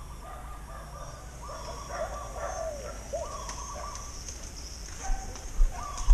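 Birds calling: a string of short whistled phrases repeating over a steady thin high-pitched hum. From about five seconds in, footsteps in sandals on a concrete bridge deck begin, about two steps a second.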